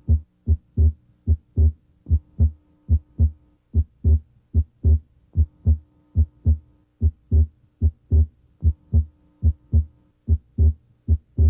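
Heart sounds heard through a stethoscope diaphragm at the left sternal border: a steady lub-dub of first and second heart sounds, just over one beat a second, over a faint steady hum. The second sound is split, abnormally wide, with the split coming and going with deep breathing.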